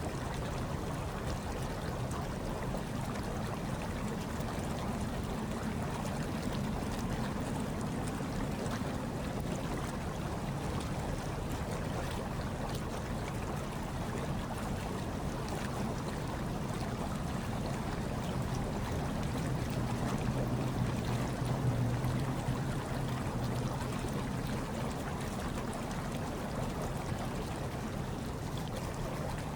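Hot tub water churning and bubbling steadily, over a low steady hum, swelling slightly about two-thirds of the way through.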